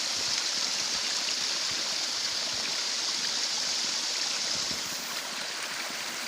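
A small waterfall: water falling and splashing in a steady hiss, a little quieter about five seconds in.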